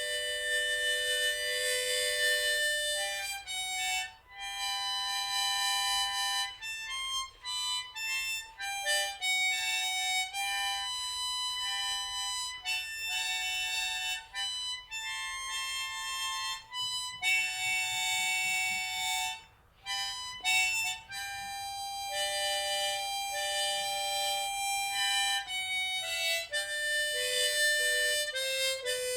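Harmonica playing a slow melody of long held notes, with two short breaks, about four seconds in and near the twentieth second.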